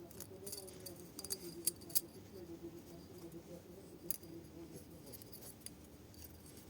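Small metal engine parts being handled on a workbench: a scatter of sharp metallic clicks and clinks, the two loudest about two seconds in.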